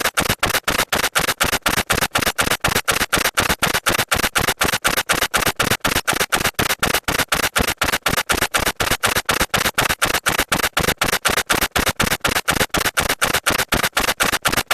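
Typewriter keys being struck in a fast, steady run of sharp clacks, about five a second.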